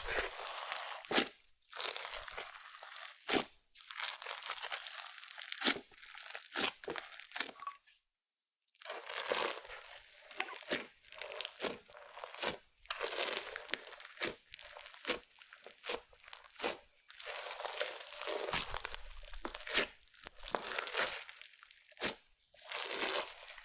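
Clear slime with makeup and glitter in it being mixed and squished: irregular sticky crackling and popping, with a silent break of about a second about a third of the way in.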